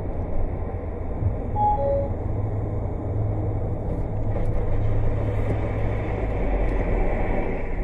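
Steady road and engine rumble of a moving car picked up by a dash-cam microphone, with no clear impacts.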